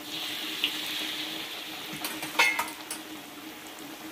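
Battered tempe sizzling in hot oil in a wok. The sizzle jumps up as a fresh slice goes into the oil, then slowly dies down. A few sharp clicks of a utensil against the wok come about two seconds in.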